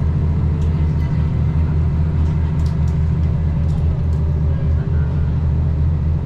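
Steady low rumble of a running vehicle's engine, with a few faint ticks.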